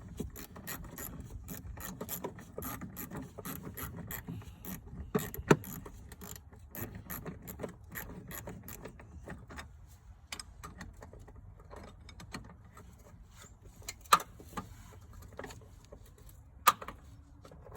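Ratchet wrench clicking rapidly as a 10 mm battery terminal nut is worked loose, then slower, more scattered clicks in the second half. Three sharp metal clicks stand out, about five seconds in and twice near the end.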